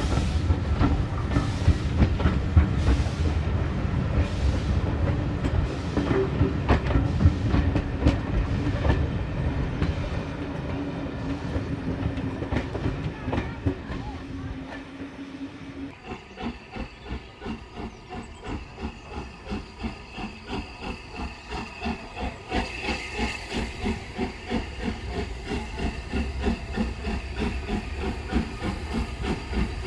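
A steam train running: a steam locomotive's exhaust beats come about once a second over a low rumble and fade away. About halfway through they give way to a quieter, quicker regular beat, and steam hisses from about two-thirds of the way in.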